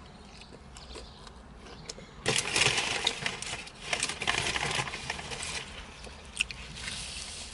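A person chewing a mouthful of crispy fried chicken sandwich close to the microphone. Crackly crunching starts about two seconds in, is loudest for a few seconds, then eases off.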